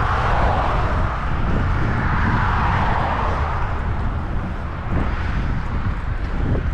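Road traffic going by on a two-lane-each-way main road: a broad tyre-and-engine hiss swells over the first few seconds and then fades, over a steady low rumble.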